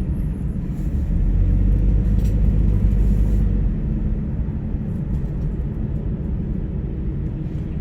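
Steady low road rumble of a vehicle driving, a little louder between about one and three and a half seconds in.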